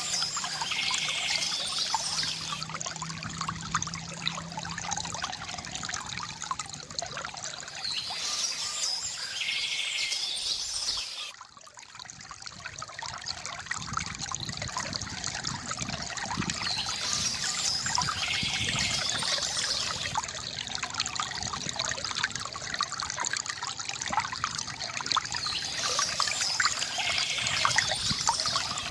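Water from a bamboo fountain trickling and pouring, with birds chirping briefly about every nine seconds. About eleven seconds in the water sound drops away suddenly, then builds back up.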